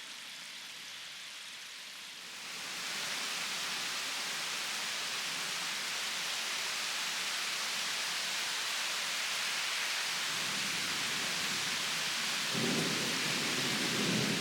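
Steady rain that grows heavier about two seconds in, with a low rumble of thunder near the end.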